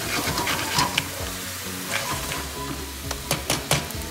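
Crab pieces sizzling in hot oil and sweet soy sauce in a metal frying pan while a spatula stirs them. Sharp clacks of the spatula on the pan come about a second in and again in a quick run near the end.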